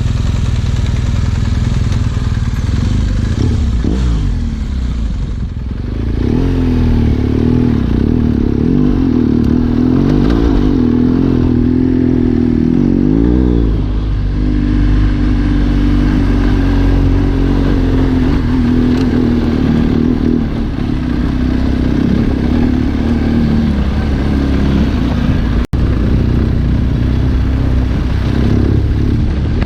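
Trail motorcycle engine running on a dirt track, its pitch rising and falling as the throttle and gears change. The sound drops out for an instant about three quarters of the way through.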